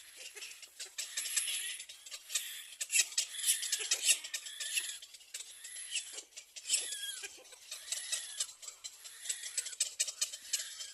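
Ducklings cheeping in quick high calls, mixed with many short clicks.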